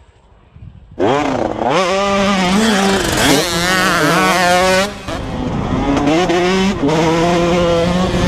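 Motorcycle engine revving hard in two long pulls, its pitch rising and wavering, starting abruptly about a second in and dipping briefly in the middle.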